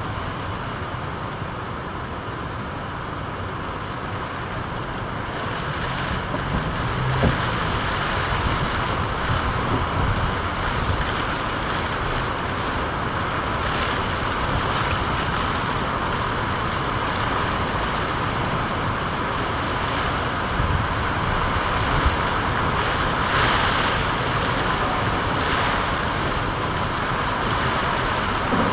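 Steady rain falling: an even, continuous hiss that swells slightly over the first several seconds, with a few brief louder taps.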